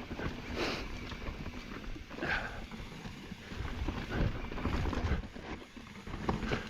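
Ibis Ripmo mountain bike riding over a rock feature: irregular knocks and rattles of the tyres, wheels and frame against rock.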